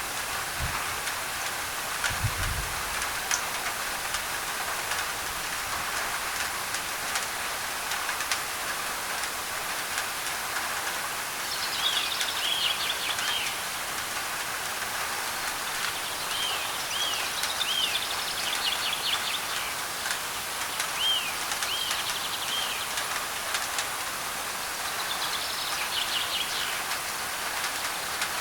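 Steady rain on a thin tin roof, an even hiss of drops. From about halfway through, a bird calls in repeated runs of short chirps.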